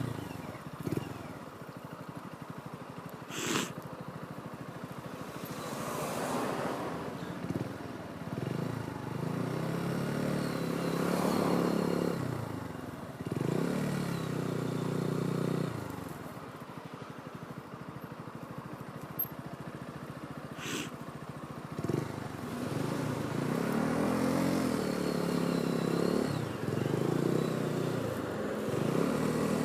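Motorcycle engine running under way, its revs climbing and dropping in several waves as the rider accelerates and changes gear. Two brief sharp knocks stand out, a few seconds in and about two-thirds through.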